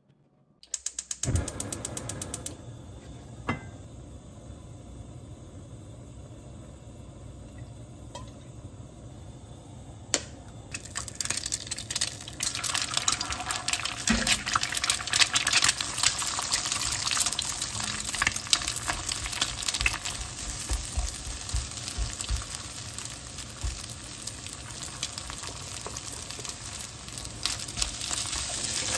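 Fried-rice ingredients frying in oil in a pan, sizzling, with a spatula scraping and clicking against the pan as it stirs; the sizzle starts low and grows much louder from about ten seconds in. Before it, a quick run of clicks near the start, then a soft steady hiss.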